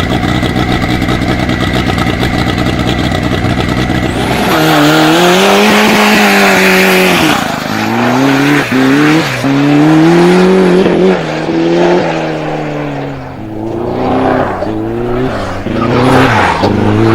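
Motorcycle-engined go-kart running hard at high revs. About four seconds in, its engine note starts climbing and dropping over and over as it is accelerated, shifted and backed off.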